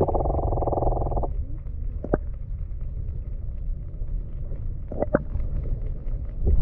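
Wind rumbling on the microphone over open water, with a buzzing drone that stops about a second in, a few sharp knocks, and a louder thump at the very end.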